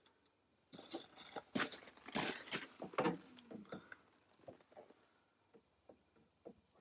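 Hands working with tools and hardware: a quick flurry of clicks, knocks and rustling for about three seconds, then a few scattered light ticks.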